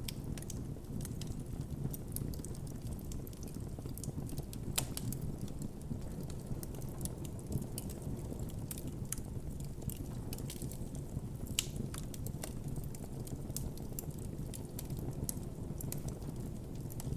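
Campfire burning with a steady low rumble of flames and frequent irregular crackles and pops, a few sharper pops standing out.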